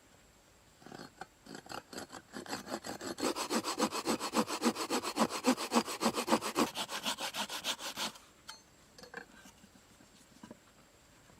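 Hand saw cutting through wood in quick, even back-and-forth strokes. They start softly about a second in, grow louder, then stop about eight seconds in.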